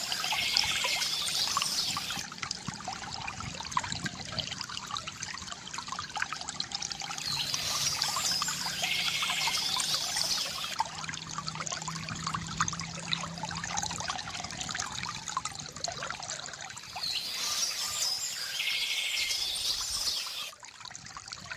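Water trickling and pouring steadily from a bamboo fountain spout, with small birds chirping in short spells that come back about every nine seconds.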